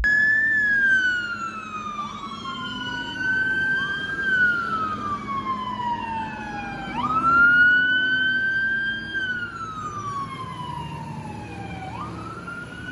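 Emergency-vehicle siren wailing: a pitch that climbs quickly, then slides slowly down, repeating about every five seconds, with two overlapping wails in the first few seconds.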